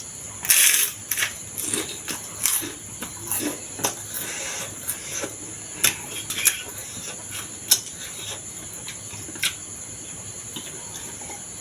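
Close-miked eating of thukpa noodle soup and momo: a loud slurp about half a second in, then scattered chewing and lip-smacking clicks. Under it all runs a steady high chirring of crickets.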